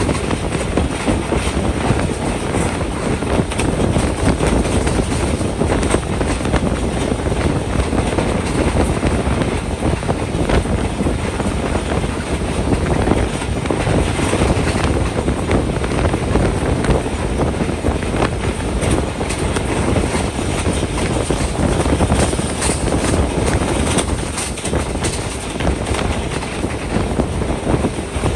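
Passenger train running along the track, with a steady rumble and a constant clatter of many quick clicks and knocks from the wheels on the rails, and some wind.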